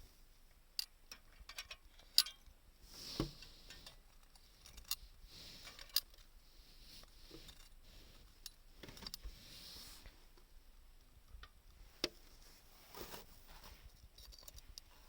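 Small wood fire in a homemade secondary-combustion stove, crackling faintly with scattered sharp pops and a few soft swells of rushing noise.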